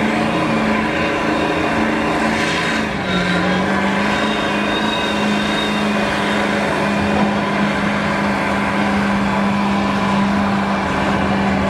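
Truck engine held at high revs under heavy load, a steady drone over a dense haze of noise. Its pitch dips slightly about three seconds in and then holds steady.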